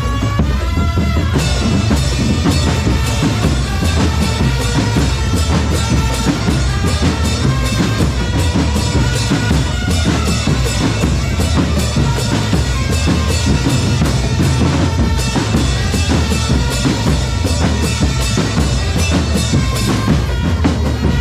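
Drum corps playing live: bass drums and snare drums beat out a busy rhythm under a melody line. The full drumming comes in about a second in.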